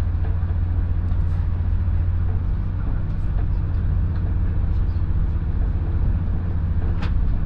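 Steady low rumble of a moving train heard from inside the carriage, with a single sharp click near the end.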